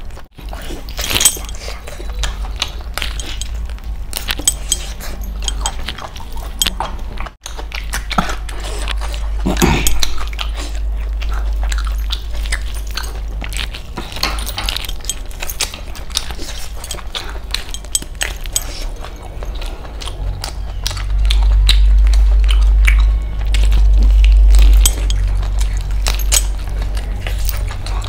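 Close-miked chewing and biting: wet smacks and clicks as meat is torn off chicken leg bones and chewed, over a steady low rumble that grows louder about three quarters of the way through.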